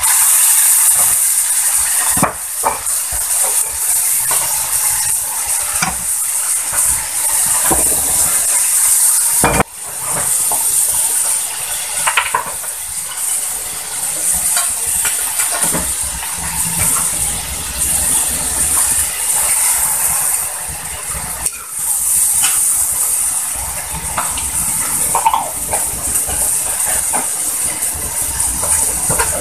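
Food sizzling as it fries in oil in a metal wok, with the occasional scrape and knock of a spatula stirring it.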